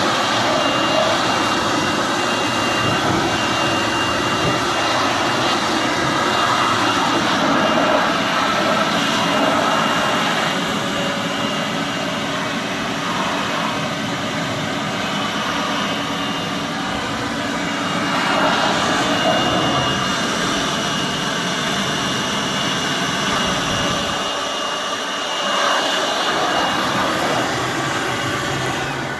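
IMT tractor's diesel engine running steadily, driving a Red Lance mini round hay baler through the PTO, with a faint steady high whine over the engine noise.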